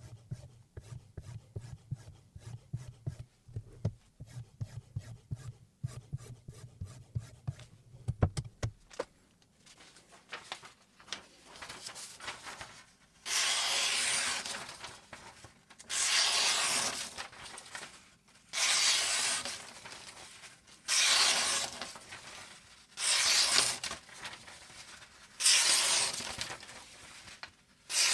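A Damascus chef knife's edge drawn in slow, even strokes, six long scraping hisses about two and a half seconds apart in the second half. Before them come quick light clicks and taps.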